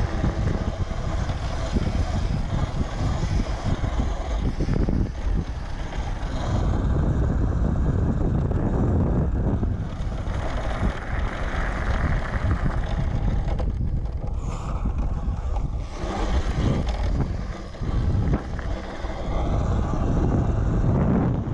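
Wind buffeting the microphone while riding an electric dirt bike: a steady rushing noise, heaviest low down, that eases briefly a couple of times.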